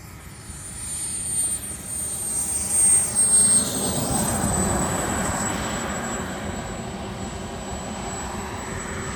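JetCat 300 Pro turbine of a BVM Desperado RC jet passing by with a high, steady turbine whine over a broad rush of jet noise. It grows louder from about a second in, is loudest around three seconds in, then fades slowly.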